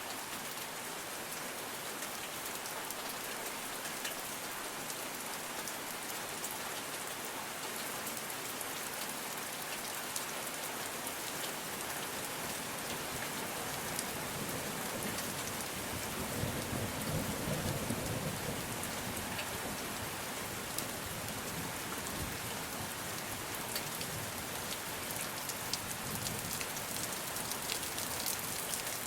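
Steady rain falling, with many small drop ticks throughout; a low rumble of distant thunder swells a little over halfway through and dies away a few seconds later.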